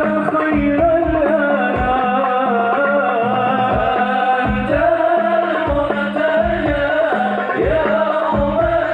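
A male voice singing an Arabic religious song with long, wavering melismatic lines in Middle Eastern style, over a steady beat of drum strokes.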